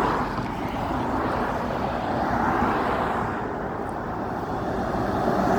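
Road traffic noise: a steady rush of passing vehicles that swells and eases over a few seconds.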